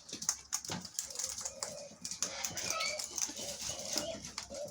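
Wild birds at scattered seed: short chirps and calls over many light, irregular clicks.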